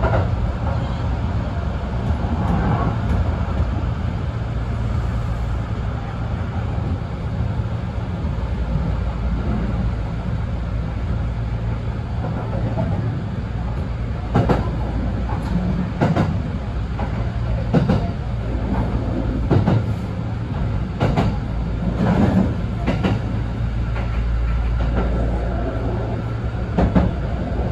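Kintetsu electric express train running, heard from inside: a steady low rumble of wheels and motors, with the wheels clacking over rail joints, often in quick pairs, from about halfway through.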